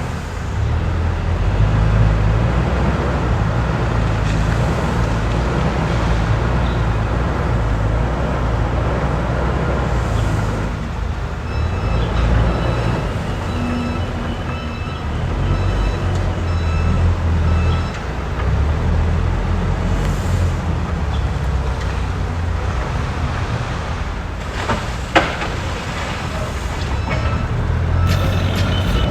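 Excavator's diesel engine running and working, a steady low rumble that swells and eases as it digs, with a single sharp knock near the end.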